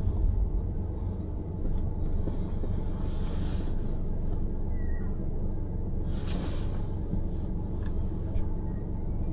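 Car driving, a steady low road and engine rumble, with two brief swells of hiss about a third and two thirds of the way through.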